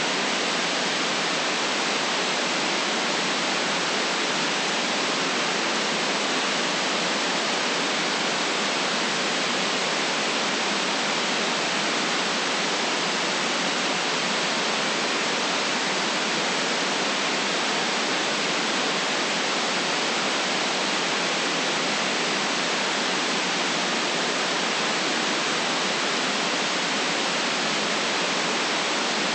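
Steady white noise for sleep: an even, unchanging hiss that stays at one level throughout, with no events in it.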